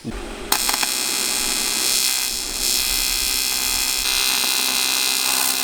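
Electric arc welding on a car's boost piping: a steady buzzing crackle that starts about half a second in and runs on unbroken, as the weld seals a boost leak.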